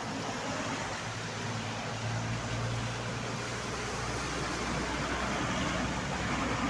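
Heavy road vehicle's engine running with a steady low hum over road and tyre noise, getting a little louder toward the end as it comes nearer.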